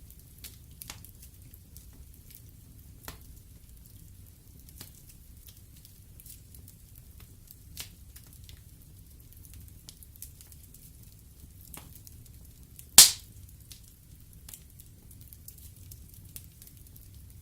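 Wood fire burning in a fireplace, crackling with scattered small pops over a low steady rumble, and one loud sharp pop about three-quarters of the way through.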